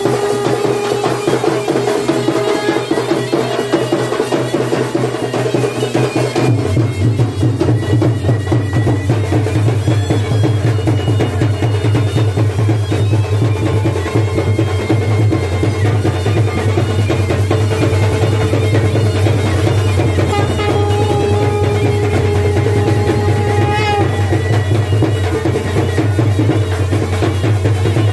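Traditional folk music played without a break: drums beating steadily under a wind instrument with a reedy, bagpipe-like tone holding long notes. The deep drum sound fills out about six seconds in.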